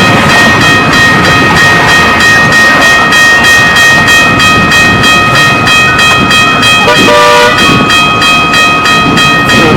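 Train passing very close: a loud, fast, even clatter of wheels on the rails under a steady high-pitched tone that holds throughout, with a brief lower tone sounding about seven seconds in.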